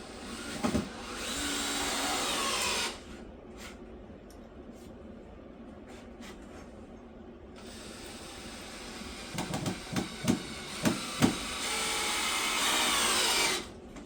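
Power drill running in two bursts, the second one longer, with several sharp knocks between them.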